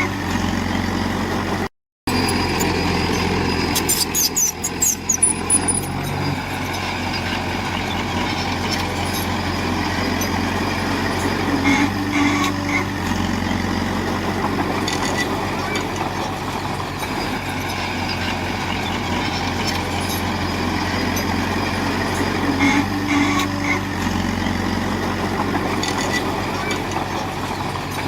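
Heavy earthmoving machinery's diesel engine running steadily under load, with a run of sharp metallic clicks and squeaks for a couple of seconds about four seconds in. The sound drops out abruptly for a moment just before two seconds in.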